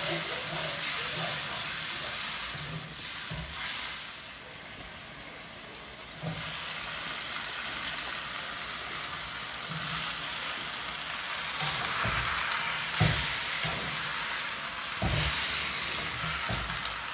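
Food frying in hot oil: a steady sizzle that drops away about four seconds in and comes back strongly about two seconds later, with a few dull knocks in the second half.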